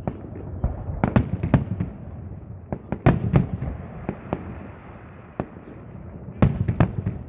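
Fireworks salute: shells bursting in quick clusters of sharp bangs, about a second in, around three seconds in and again near the end, over a steady rumble between them.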